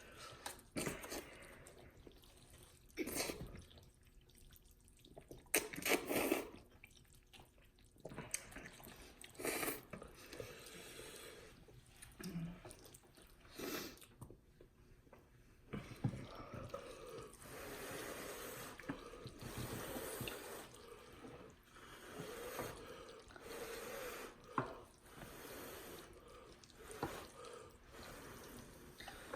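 Spicy cheesy ramen noodles being slurped and chewed with the mouth open: irregular short slurps and smacks, coming thicker and almost without pause in the second half.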